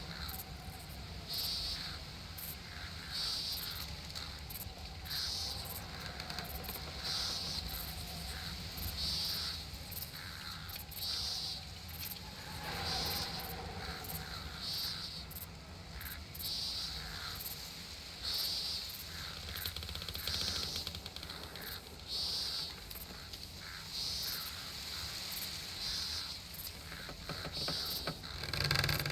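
Summer nature ambience: a bird gives a short high call about every two seconds, other birds chirp more faintly, and a steady low rumble runs underneath.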